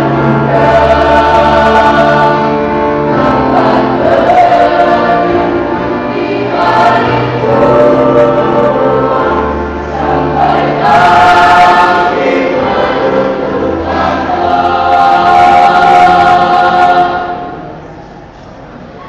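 A choir singing in harmony, with long held chords; the singing falls away near the end.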